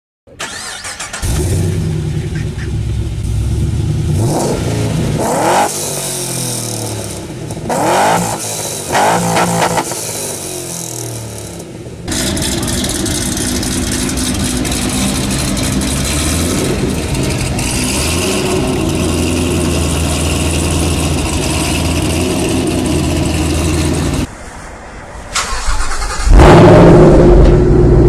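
Loud car engines in a run of cut-together clips: revs rising and falling sharply in the first part, then a deep engine running steadily, and a louder engine taking over near the end.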